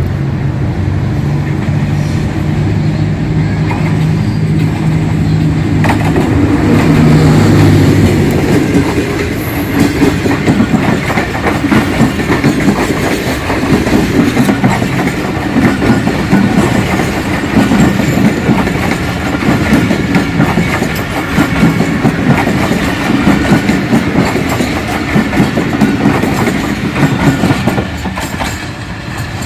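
A ZCU-20 diesel-electric locomotive passes with a steady engine note that is loudest about seven seconds in. The passenger coaches behind it then go by with continuous clickety-clack of wheels over the rail joints.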